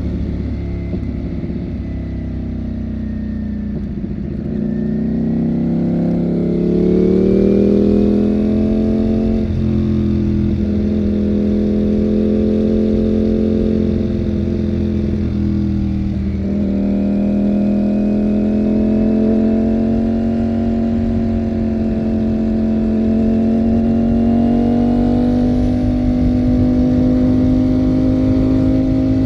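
Ducati Panigale V4 motorcycle's V4 engine running under way. Its pitch sags about four seconds in and then climbs, dips briefly twice more, and then holds steady with a slow rise.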